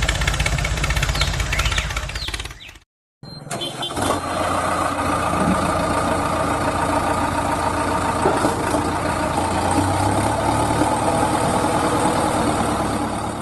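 A small engine running steadily, cut off by a sudden break about three seconds in, then running again.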